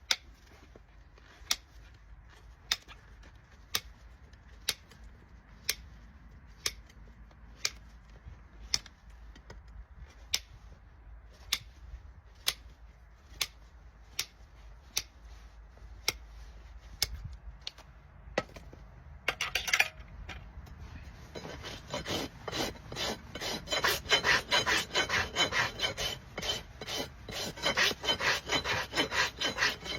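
A farrier's rasp filing a Shire horse's hoof in quick, rough strokes, starting about two-thirds of the way in. Before that comes a run of sharp clicks about once a second.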